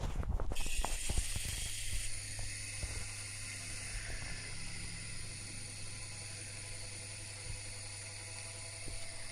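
Elevator hoist motor being test-run: a few clicks, then the motor starts about half a second in and runs steadily with a low hum and a high hiss.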